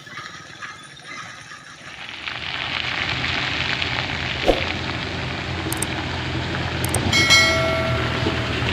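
Hino truck's diesel engine running hard under load up a slippery muddy climb, the noise coming up sharply about two seconds in and staying loud. A single knock about halfway through, and a steady held tone near the end.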